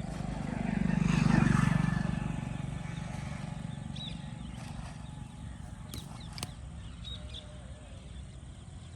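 A motor vehicle passing by: its engine swells to a peak about a second and a half in, then fades away. Two sharp clicks come about six seconds in.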